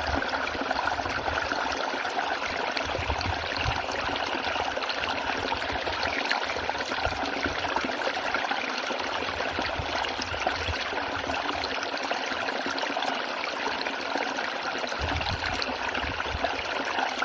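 Water of a small spring-fed waterfall running and splashing steadily.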